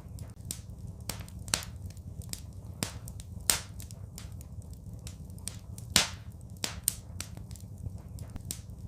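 Wood fire crackling: irregular sharp pops and snaps, the loudest about three and a half and six seconds in, over a low steady rumble.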